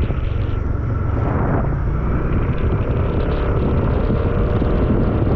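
Yamaha NMAX scooter's single-cylinder engine running steadily, a low, even rumble.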